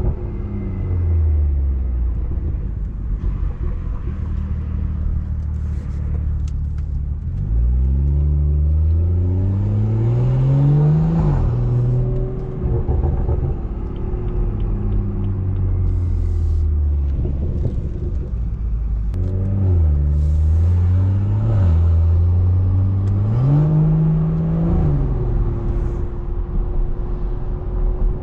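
BMW 340i's turbocharged straight-six with a straight-piped exhaust, heard while driving: the engine note climbs under acceleration and drops at gear changes several times, then settles to a steady cruise.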